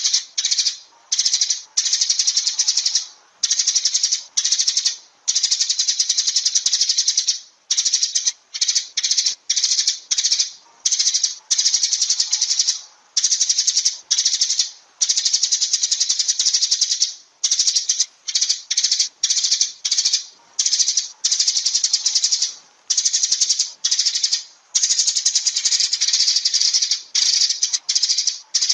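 Sparrows chirping in fast, dense runs of high chirps, broken by short pauses every second or two.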